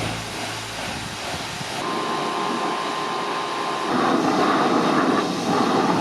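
Pressure washer running and spraying water, a steady hissing rush with a faint steady whine in the middle; the spray gets louder about four seconds in.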